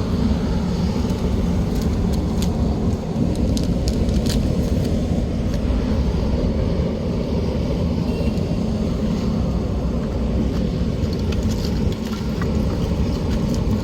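A steady low rumble throughout, with a few light knocks and clicks as fire starter and wood are put into a wood stove's firebox.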